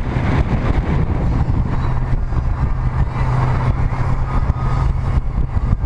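Motorboat engine running steadily under way, a constant low drone with a steady rushing noise over it.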